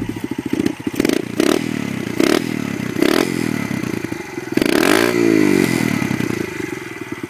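Kawasaki KLX110 dirt bike's small single-cylinder four-stroke engine being revved in short throttle blips. The largest rev comes about five seconds in, then it falls back toward idle.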